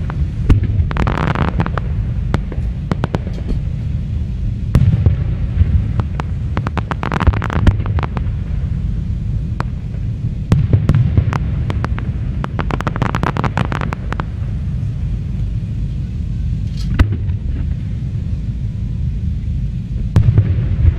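Aerial fireworks display: a continuous low rumble of booming shells with many sharp bangs, and bursts of crackling about a second in, around seven seconds and around thirteen seconds.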